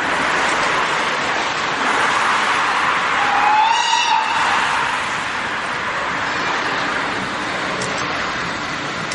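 Train running, a steady rumbling noise. About three seconds in, a short high whistle sounds for about a second, rising slightly in pitch.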